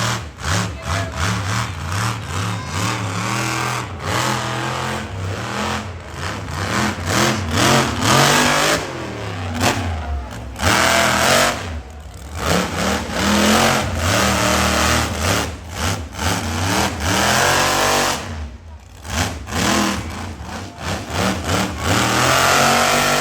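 Monster truck's supercharged V8 revving hard in repeated bursts, the pitch rising and falling as the throttle is blipped, with a few brief dips when it lets off.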